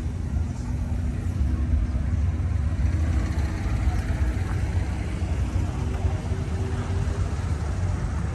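Crowd ambience: background chatter over a steady low rumble.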